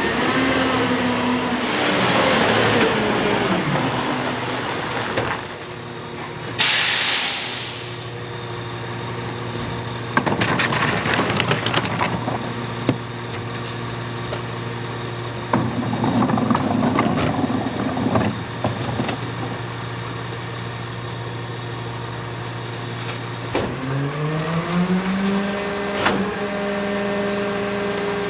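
Rear-loader garbage truck on a Battle Motors Raider chassis with a Pac-Tech Extreme Duty body. The engine winds down, then a sharp air-brake hiss comes about seven seconds in. The engine then idles steadily through two stretches of clatter as carts are tipped into the hopper, and near the end it revs up and holds there to drive the hydraulic packer.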